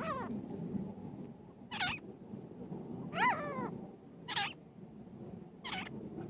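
Grey francolin (desi teetar) calling: five short, shrill notes, each rising and falling in pitch, repeated about every one and a half seconds.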